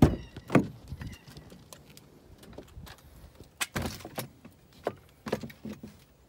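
A Ram pickup truck's driver door being opened and someone climbing into the cab: a series of sharp clicks and knocks from the door and latch, with keys jangling and rustling between.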